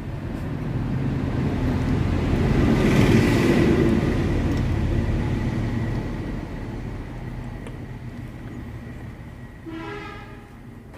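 A heavy vehicle passing by, its rumble swelling to a peak a few seconds in and then slowly fading, with a short horn honk near the end.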